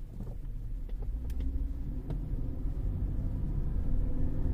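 Cabin rumble of a 2013 Cadillac CTS under way, with a faint engine and driveline hum that rises a little and grows louder toward the end.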